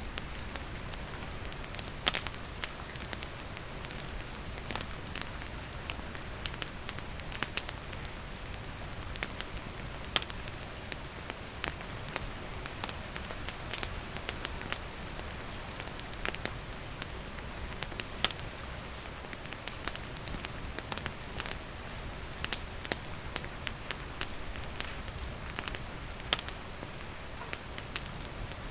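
Wood campfire crackling under steady rain: an even hiss of rain with frequent, irregular sharp pops and snaps from the burning wood.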